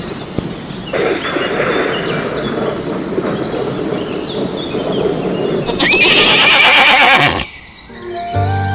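A horse neighing, with the loudest, highest whinny near the end, which cuts off abruptly.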